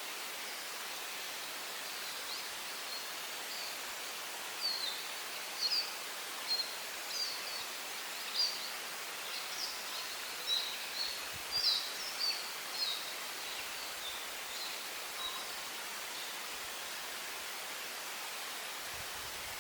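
Forest birds chirping in a run of short, high calls that come thick in the middle and thin out again, over a steady hiss of wind in the trees.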